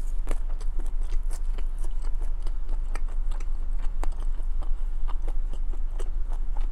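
Close-miked chewing of a mouthful of chili cheese fries: irregular wet clicks and smacks of the mouth, over a steady low hum.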